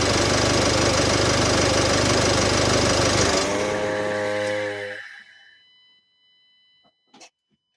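Nissan X-Trail T31's M9R 2.0 diesel engine running with a loud, steady hum. About three and a half seconds in the noise drops away, leaving a humming tone that cuts off about five seconds in, as when the engine is switched off. A few faint clicks follow near the end.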